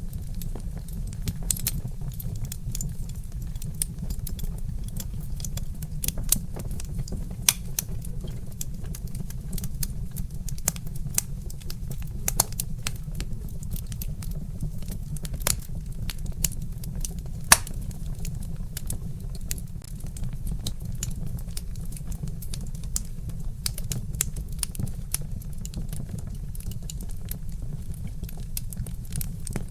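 Wood fire crackling: irregular sharp pops and snaps from burning logs, the loudest about 17 seconds in, over a steady low rumble.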